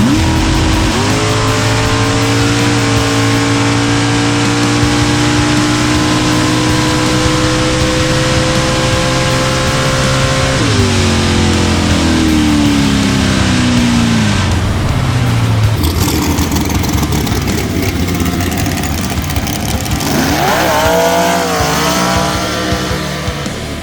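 Drag car engine at wide-open throttle on a full pass: it launches about a second in and holds high revs with a slowly climbing pitch and a step that sounds like a gear change. The throttle is lifted about ten seconds in and the pitch falls away as the car slows. Near the end the engine note wavers up and down.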